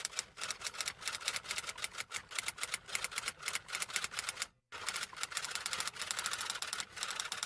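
Rapid typing clicks, several a second, like a typing sound effect, breaking off for a moment about halfway through and then going on.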